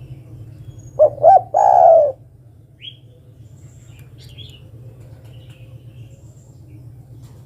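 Spotted dove (derkuku) cooing once about a second in: two short rising notes, then a longer note. It is a female's call to a male. Small birds chirp faintly over a steady low hum.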